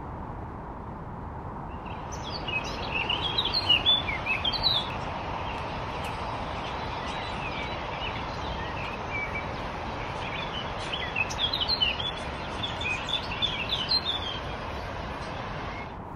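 Songbirds chirping and singing in quick twittering phrases in two spells, the first about two to five seconds in and the second from about ten to fourteen seconds, over a steady background hiss.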